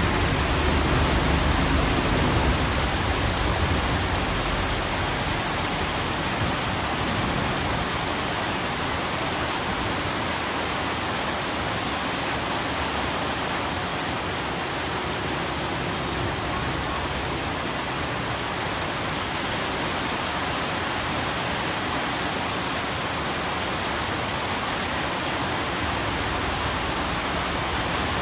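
Steady heavy rain falling, an even hiss of water. A low rumble of thunder dies away in the first couple of seconds.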